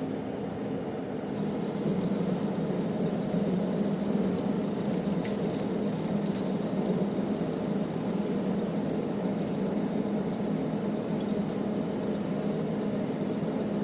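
Manual metal lathe running with a steady motor hum while cutting the thread of a 100 mm bolt. About a second in the sound gets louder and a steady high hiss joins.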